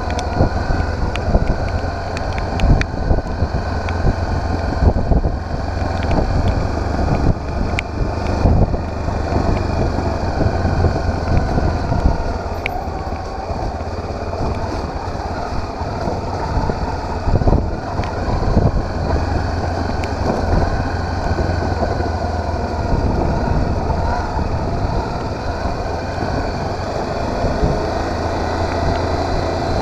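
Motorcycle engine running steadily while riding, with wind rumbling on the microphone and scattered short knocks.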